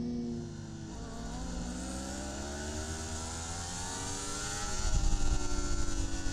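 Racing superbike engine heard from the onboard camera: the revs sit low about a second in, then climb steadily for several seconds as the bike accelerates, with a brief dip near the end at a gear change before it pulls on louder. A steady rush of wind runs underneath.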